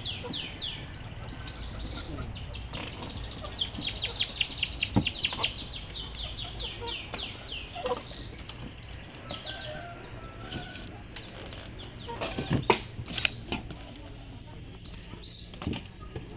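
Domestic canary singing: rapid trills of high, quickly falling notes, densest near the start and a few seconds in, then more broken. A few short, louder sharp sounds come past the middle.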